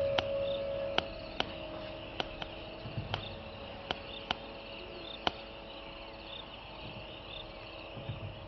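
Insects chirring steadily, with about ten sharp clicks at uneven spacing over the first five seconds and a held low tone fading out near the start.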